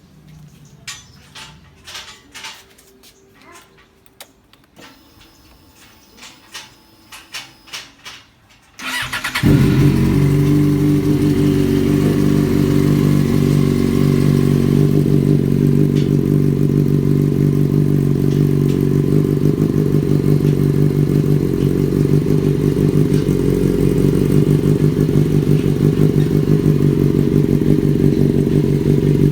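Yamaha XJ6 inline-four engine started through a custom aftermarket exhaust (SC-style replica silencer, power boom and spiral link pipe), catching about nine seconds in and settling into a steady idle. Before it starts there are a few scattered clicks and knocks.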